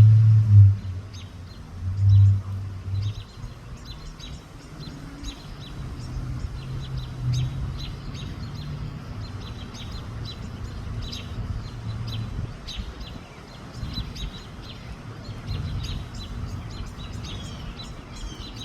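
Small birds chirping in short repeated calls, over a low rumble that swells twice near the start and then continues more softly.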